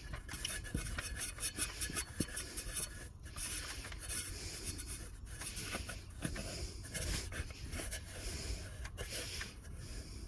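Irregular rubbing and scraping with scattered light clicks and knocks as parts and tools are handled during reassembly.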